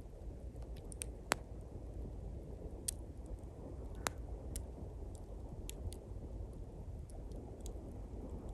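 Small campfire of thin pine twigs crackling, with scattered sharp pops, two of them louder, over a steady low wash of sea waves.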